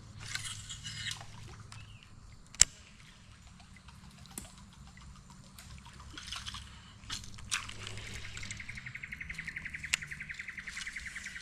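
Creek ambience: dripping and trickling water with scattered sharp clicks and knocks, the loudest about two and a half seconds in. From about eight seconds in, a rapid, evenly pulsed high trill sounds.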